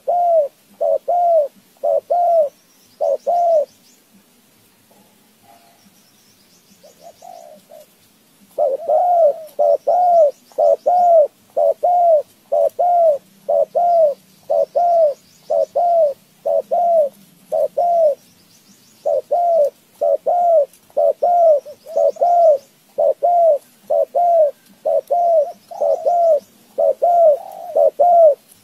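A bird calling in a long series of short, low, arched notes, about two a second, with a pause of a few seconds near the start.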